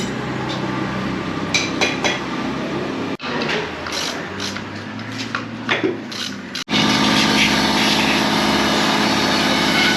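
Motorcycle repair workshop noise: a steady machine or engine hum with sharp metal clinks of tools, broken by two abrupt cuts, the hum strongest in the last part.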